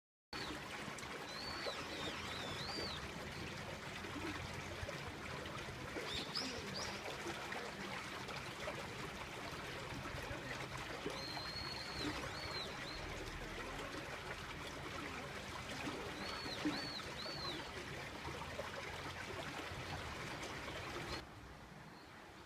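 Small birds chirping in a few short groups of high calls over a steady rushing background noise. The background drops sharply near the end.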